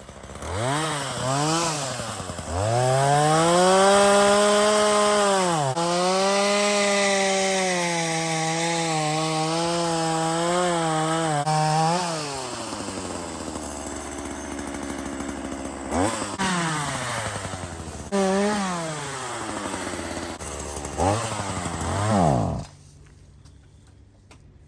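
Chainsaw engine revved up twice, then held at high speed for about ten seconds, dropping back to a lower idle and blipped up a few more times before it is shut off about two seconds before the end.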